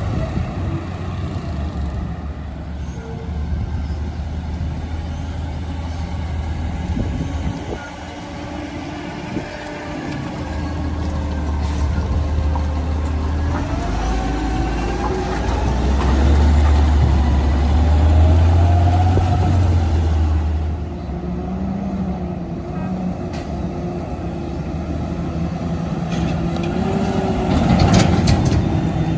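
Garbage truck's diesel engine running and working past, its pitch climbing and the level rising about halfway through, with a short burst of hiss near the end.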